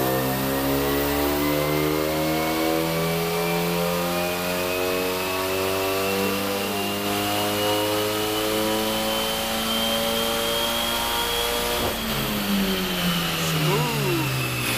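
A car engine on a chassis dyno making a full-throttle pull, heard from inside the cabin: the revs climb steadily with a high whine rising alongside, then fall away after about twelve seconds as the driver lifts off.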